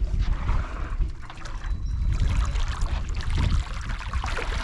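Water sloshing and splashing against the hull of a small fishing boat, with wind rumbling on the microphone and scattered short splashes.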